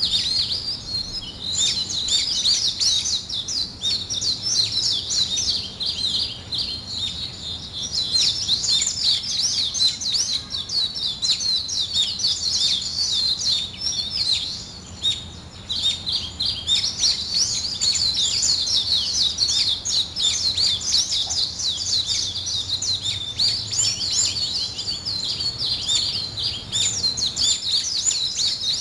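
A chorus of many small birds chirping densely together, a continuous stream of rapid high calls with a brief lull about halfway through.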